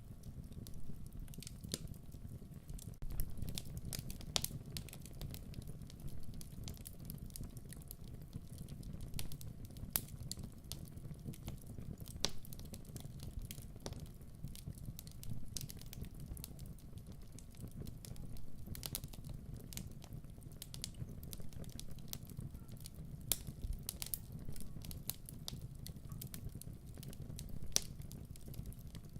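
Wood fire burning, with a steady low rumble of flames and frequent irregular sharp crackles and pops.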